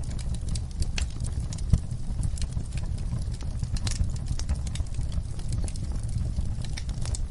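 Wood fire in a fireplace crackling: irregular sharp pops and snaps over a steady low rumble, with one louder pop a little under two seconds in.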